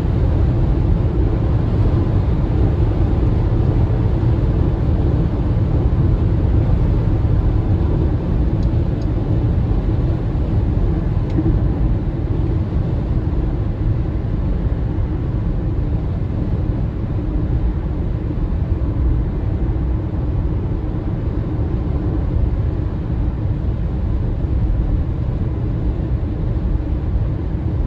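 Steady low rumble of tyre and road noise from an MG ZS EV, a battery-electric SUV, on the move, with no engine note.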